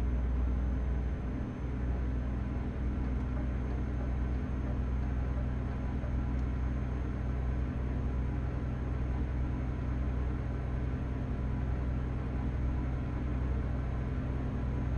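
Truck driving along, heard from inside the cab: a steady low engine and road rumble that holds even throughout.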